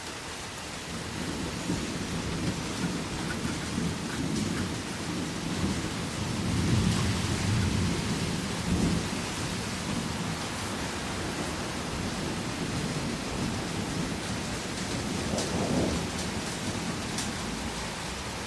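Rolling thunder from a thunderstorm: a long low rumble that builds about a second in, is loudest around the middle, and swells once more near the end, over steady rain.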